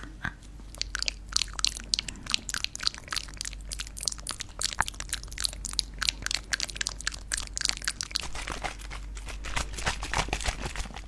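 Stones rubbed and knocked together close to the microphone, giving a dense, irregular run of crunchy clicks and scrapes, several a second.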